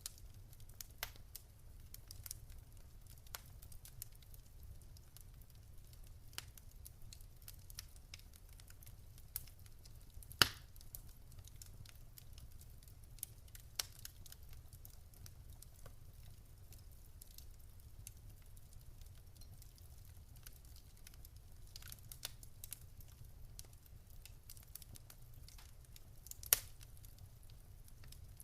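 Wood fire in a fireplace crackling softly, with scattered small pops and two louder pops, one about a third of the way in and one near the end, over a low steady rumble.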